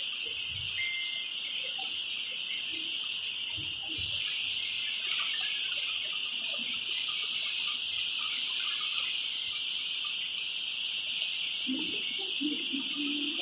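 Insects, such as crickets, chirping steadily in one continuous high-pitched drone, with a few faint bird chirps in the middle and a faint voice near the end.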